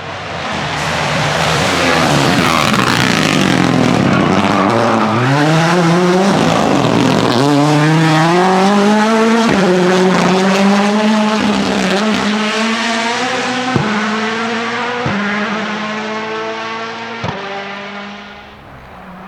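Ford Puma Rally1's 1.6-litre turbocharged four-cylinder engine pulling hard through the gears with tyres scrabbling at first, the pitch climbing and dropping at each quick upshift. Sharp cracks come at several of the shifts, and it fades as the car draws away.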